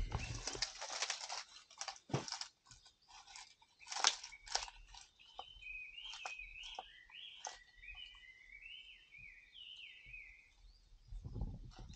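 Crunching and rustling near the start and again near the end, and a small bird singing a run of warbling chirps through the middle.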